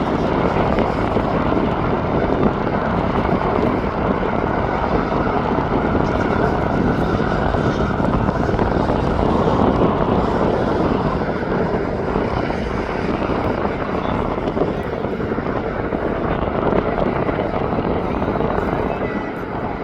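Jet airliner engines heard as a steady rushing rumble, swelling slightly about halfway through.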